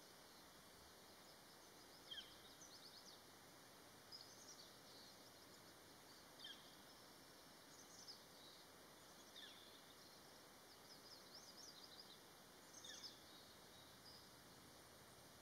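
Faint bird chirps: short high notes, some sliding down, and quick little runs of notes every second or two, over a quiet steady hiss.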